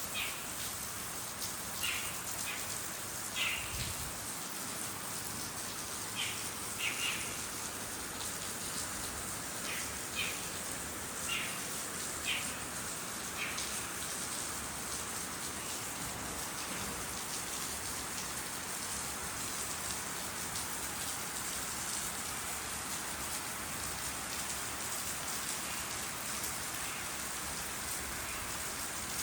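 Steady rain falling, an even hiss throughout. About a dozen short high chirps stand out over the first half.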